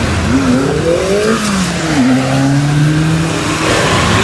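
A motor vehicle engine revving up, its pitch rising twice, over a steady hiss.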